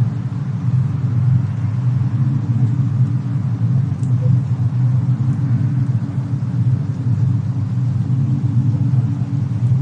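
Steady low rumble of a fireplace-and-snowstorm ambience mix, with a couple of faint crackles about four and five seconds in.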